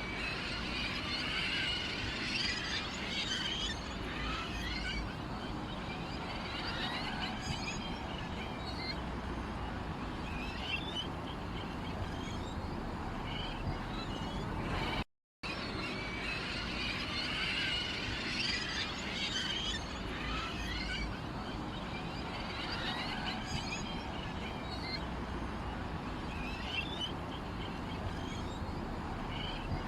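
Small songbirds chirping and twittering in a dense, continuous chorus. The sound cuts out for a moment about halfway through, then the same passage of birdsong repeats.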